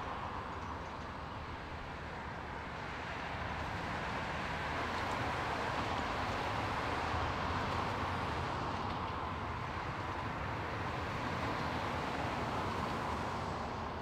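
Qube diesel locomotive hauling a loaded stone train as it approaches: a steady engine rumble with rail noise, growing a little louder about four seconds in.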